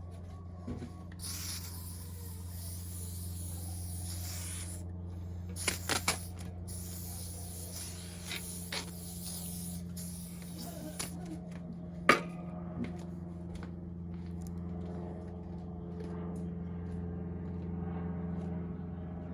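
Aluminum cylinder head being rubbed on 120-grit sandpaper over a flat tile to resurface it, giving a hissing scrape, strongest about one to five seconds in. There are a few sharp knocks near the middle, over a steady low hum.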